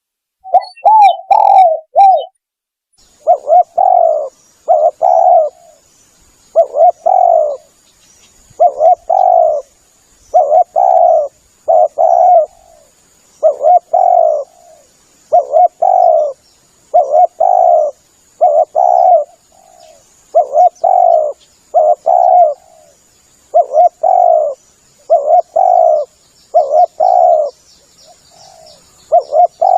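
Spotted dove (tekukur) cooing over and over, a lure call. Each short phrase of two or three coos is followed by the next about every second and a half.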